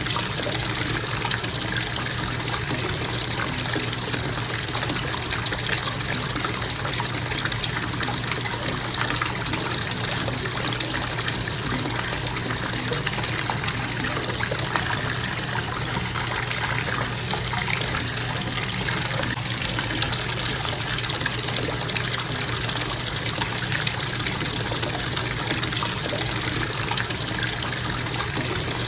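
Bathtub faucet running in a constant stream, water splashing steadily into the tub.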